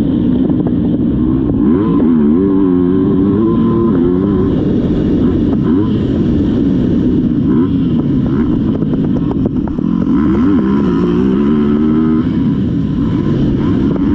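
Motocross dirt bike engine running hard, its pitch climbing and dropping repeatedly as the throttle is opened and closed around the track.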